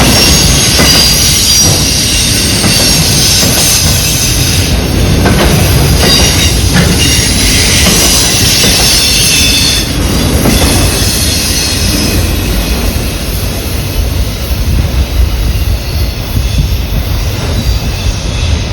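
Freight train cars rolling past with a loud low rumble and high wheel-flange squeal as the train turns onto another line. The squeal fades about halfway through, leaving the rumble and clatter of the cars.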